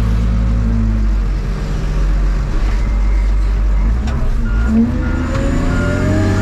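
Diesel engine of a New Holland 12D wheel loader running low, then revving up about four seconds in, with a reversing alarm beeping near the end.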